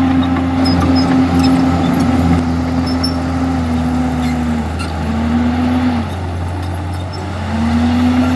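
Diesel engine of a Komatsu D51EX bulldozer running steadily under load. Its pitch sags twice, about halfway through and again near the end, before rising back.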